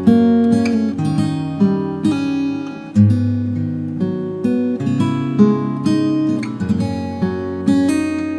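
Acoustic guitar music: plucked and strummed chords, each note ringing on after a sharp attack.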